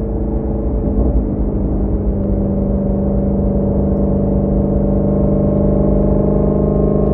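Shelby GT350's 5.2-litre flat-plane-crank V8, with resonator-delete X-pipe, off-road mid pipes and exhaust valves open, droning steadily while cruising at constant speed, with a brief rougher patch about a second in.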